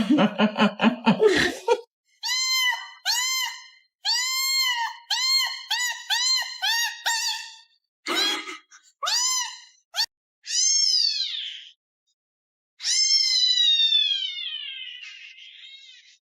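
A cat meowing over and over in short meows that each rise and fall in pitch, then two longer, higher meows, the last one drawn out and slowly falling. A person laughs briefly at the start.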